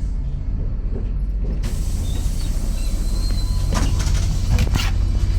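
MAZ 103 city bus with its engine running as a steady low rumble; about a second and a half in, a hiss of air starts, and a few knocks and creaks follow near the middle, typical of the bus's pneumatic doors working.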